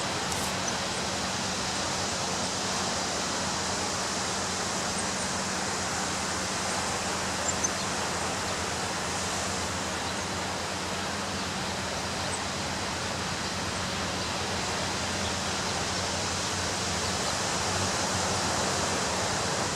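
Ocean surf breaking on a beach, heard as a steady, even roar of water without distinct swells, with a couple of faint clicks about seven seconds in.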